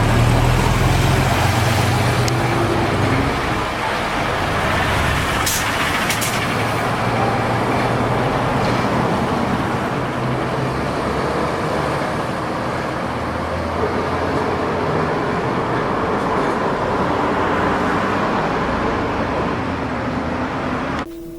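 City street traffic: road vehicles running steadily, with a low engine hum that comes and goes and a few short sharp clicks about five to six seconds in.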